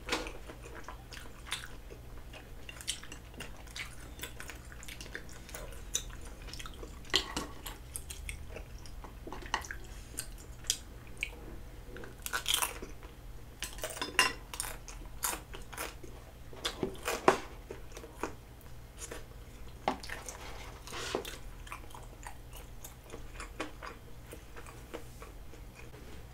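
Close-miked chewing of chewy rice cakes and dumplings, with irregular wet mouth sounds. Scattered clicks of chopsticks and a wooden spoon against the dishes.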